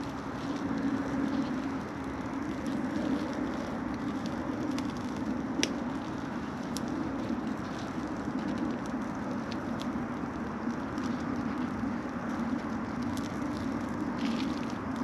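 Campfire burning, with a few sharp crackles and pops (the loudest about five and a half seconds in) over a steady rushing noise.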